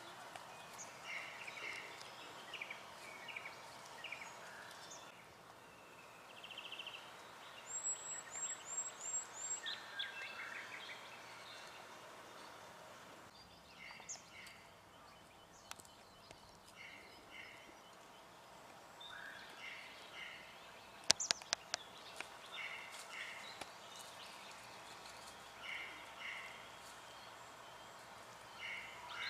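Faint wild birdsong: scattered short chirping notes, with a quick run of five very high, thin, falling notes about eight seconds in. A few sharp clicks come about two-thirds of the way through.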